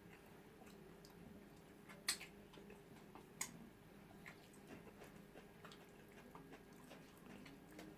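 Quiet eating sounds: scattered faint mouth clicks and smacks from chewing, with two sharper clicks about two and three and a half seconds in.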